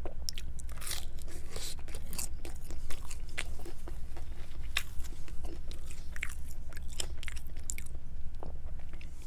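Close-miked chewing of a bite of pizza crust dipped in creamy sauce: irregular wet mouth clicks and bites, over a steady low hum.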